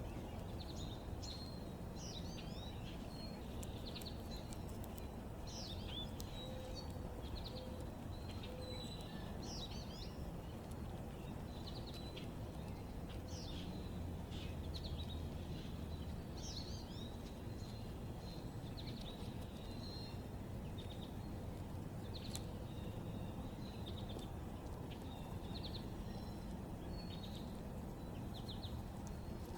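Several small backyard birds chirping and twittering, short calls coming thick and fast and overlapping, over a steady low background rumble.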